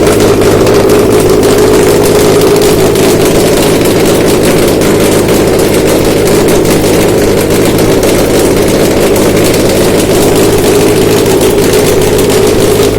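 Subaru EJ253 2.5-litre flat-four engine running on a test stand at a steady speed, a fast, even pulsing over a constant drone.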